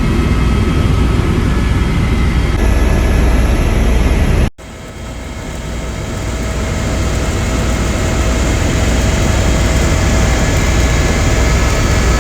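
Helicopter running: a loud steady low rumble with a constant whine. About four and a half seconds in it cuts out abruptly and returns, building back up over a second or two.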